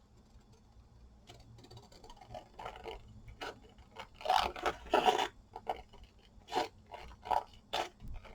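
Short scraping strokes on glue-covered paper, made while trimming and cleaning up a napkin-covered tag. They begin about a second in, are loudest about four to five seconds in, and near the end come as single strokes well under a second apart.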